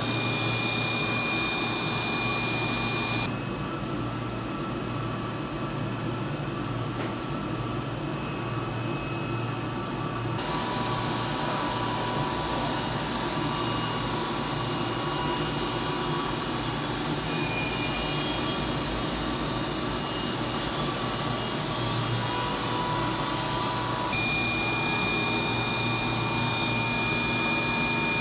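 Machinery running steadily with several high whining tones. The sound changes abruptly about three seconds in, again about ten seconds in, and again near the end, the last section matching the first.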